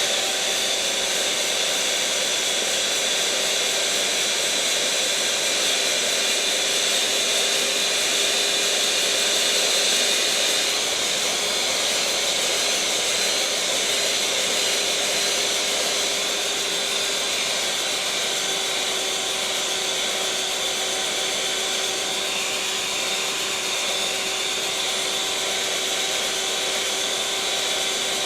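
Electric mixer motor running steadily at a constant speed: an even whirring hiss with a fixed-pitch hum.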